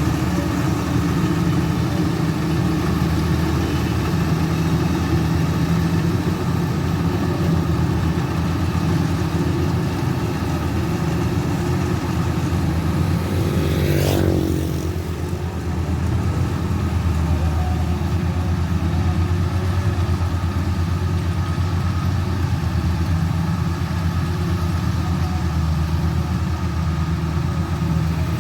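Combine harvester's diesel engine running steadily, a continuous low drone. A brief noise cuts across it about halfway through.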